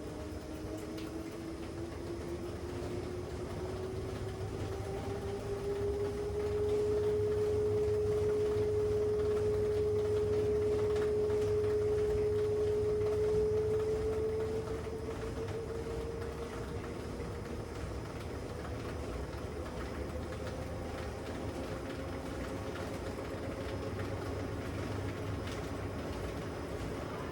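LG WM6700HBA front-load washing machine spinning up: a motor whine rises in pitch, holds steady and louder for several seconds in the middle, then climbs slowly again, over a low rumble from the drum.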